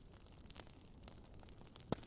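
Campfire crackling faintly, with a few sharp pops, the loudest near the end. Insects, likely crickets, chirp in short high repeated notes behind it.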